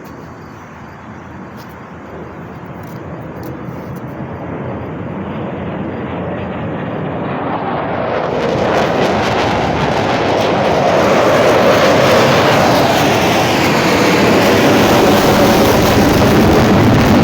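Airplane engine noise from an air show flyover, growing steadily louder over about ten seconds as the aircraft approach, then holding loud and full as they pass close by.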